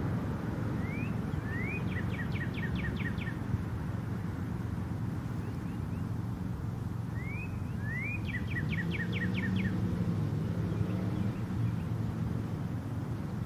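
A songbird singing twice: each song is two quick rising notes followed by a fast run of about seven short notes. A steady low rumble runs underneath.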